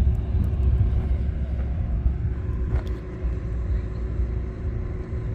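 A vehicle engine running with a steady low rumble, and a couple of faint clicks.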